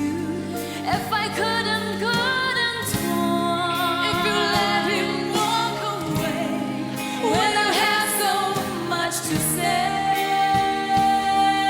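Live vocal duet performance with band accompaniment, the voices sliding and wavering through the melody, then holding one long note near the end.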